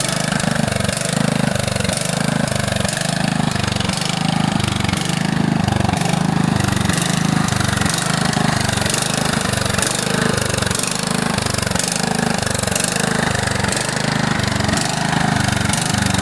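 John Deere STX38 riding mower's Kohler Command single-cylinder engine running steadily at idle, with a regular low pulse about twice a second. It is really loud because the muffler has come disconnected from the exhaust.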